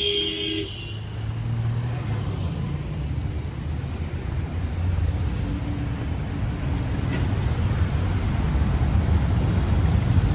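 Street traffic: a car horn honking ends just after the start, then the steady rumble of passing cars and engines, growing a little louder near the end.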